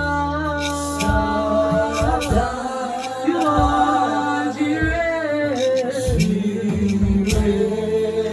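Worship singing with a backing band: a sung melody held in long notes over a steady bass, with a drum or percussion stroke about once a second.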